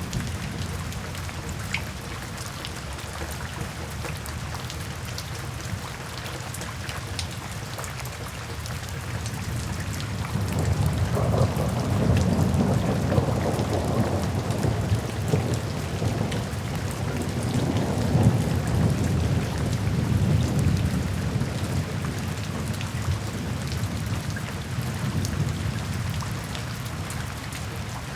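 Steady rain falling with scattered close drop taps, and a long low rumble of thunder that swells about a third of the way in, peaks in the middle and fades out near the end.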